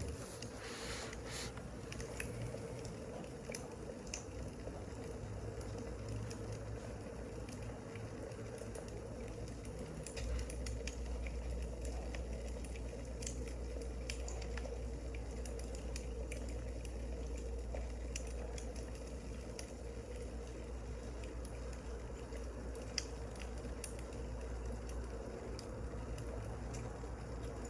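Wood fire crackling: a steady hiss with scattered sharp pops and snaps. A low rumble comes in about ten seconds in.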